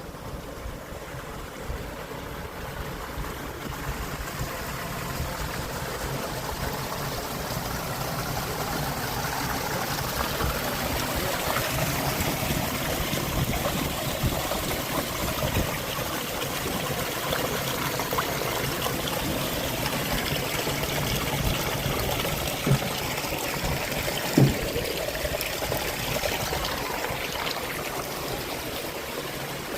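Water running and trickling steadily, as from the seawater feeds of live-fish tanks, growing fuller partway through. Two short sharp knocks sound near the end.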